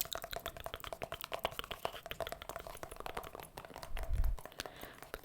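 Fast, close-miked ASMR trigger sounds: a dense run of rapid clicks and crinkles, with a low muffled thump about four seconds in.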